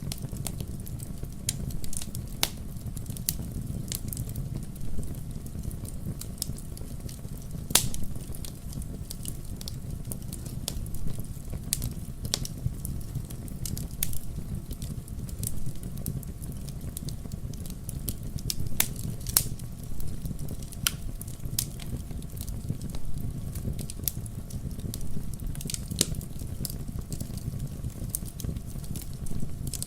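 Wood fire burning in a fireplace: a steady low rumble of flames with logs crackling in irregular sharp pops, several of them louder.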